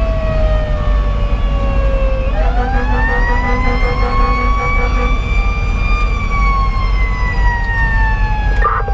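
Federal Q2B mechanical siren on a fire engine, coasting down in pitch, then winding up again from about two seconds in to a peak near six seconds, then slowly winding down. A steady low rumble from the truck's 470 hp Detroit Series 60 diesel and the road runs beneath it.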